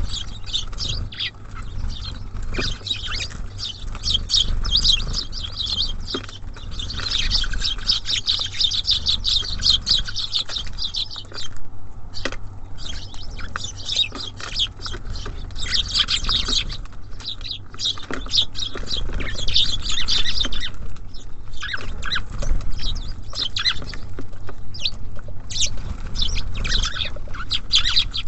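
Small songbirds chirping and chattering busily at a feeder, many quick high calls overlapping almost without pause and dropping off briefly about halfway through. A steady low rumble runs underneath.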